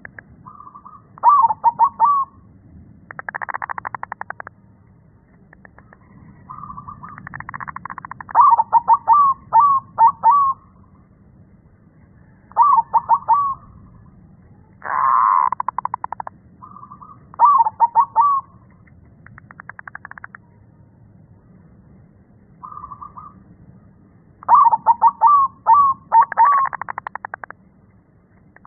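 Zebra dove (perkutut) cooing in repeated song phrases, each a short lead-in note followed by a quick run of three to five coos, about six phrases in all, in a voice called deep and bassy. Short buzzy bursts come between some of the phrases.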